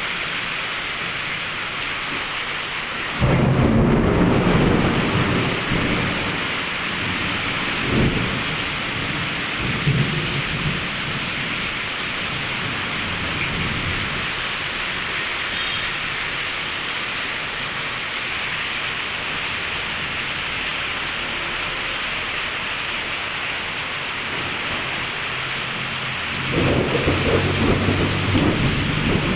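Heavy rain pouring steadily throughout a thunderstorm. A sudden loud thunderclap about three seconds in rumbles on for a few seconds, fainter rumbles follow, and another thunderclap breaks near the end.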